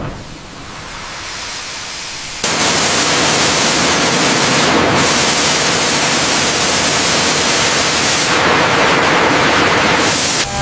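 Steady loud hissing noise, like a blast of air, spray or abrasive. It is softer at first, then switches on suddenly about two and a half seconds in and carries on evenly.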